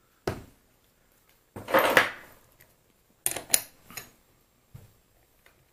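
Steel lathe parts and tools clinking and knocking together on a bench: a single clink, then a longer clatter about two seconds in, a quick pair of clicks, and a couple of lighter ticks.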